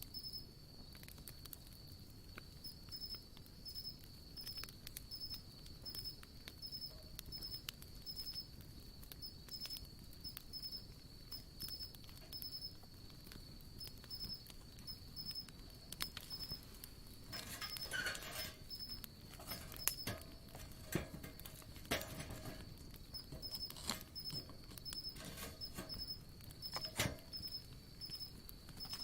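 Wood campfire crackling: irregular small snaps and pops, with a run of louder snaps in the second half. A faint, high, steady pulsing tone sounds underneath, about three pulses every two seconds.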